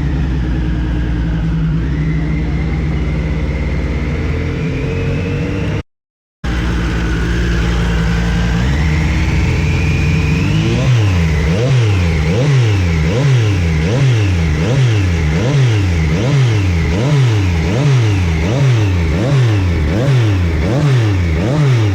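Motorcycle engine running loudly with rising revs, then, from about halfway through, revving up and down over and over, about once a second. It cuts out briefly near the start.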